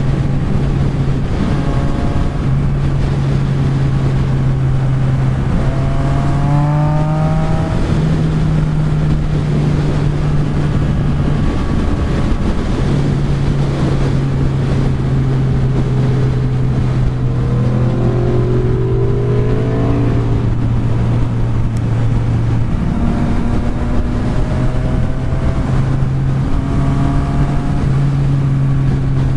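Yamaha XSR900's inline-three engine running at road speed under heavy wind rush on the microphone. Its note climbs in pitch briefly a couple of times, about six and eighteen seconds in, as the bike accelerates.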